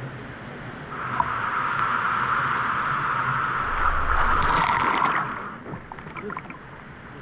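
Rushing water, heard as a steady rush that gets louder about a second in and drops back sharply after about five and a half seconds.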